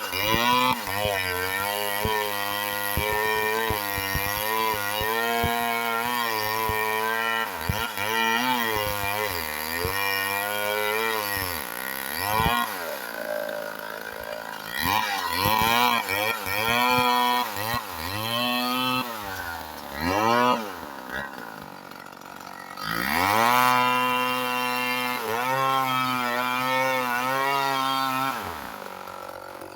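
Small Homelite chainsaw cutting a wedge-shaped notch into a hung-up red oak, its engine revving up under cut and falling back toward idle several times, with short drops at about twelve seconds, around twenty to twenty-two seconds and near the end.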